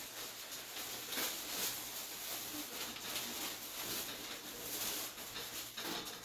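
Rustling and light crinkling as materials are handled, with a few soft taps scattered through it.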